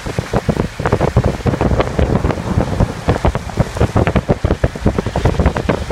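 Heavy rain, with large drops striking a hard surface close by in quick, irregular taps.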